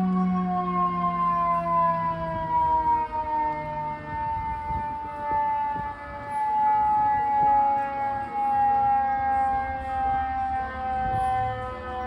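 Fire truck's mechanical siren winding down, one steady tone with its pitch falling slowly, over the low rumble of the truck.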